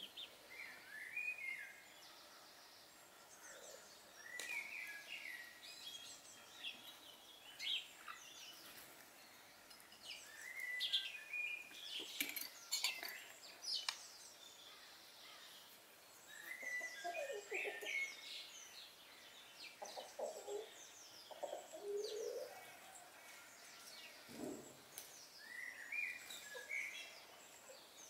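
Small birds chirping in repeated short bursts of high, quick notes, with a few lower calls in the middle and a few sharp clicks about halfway through.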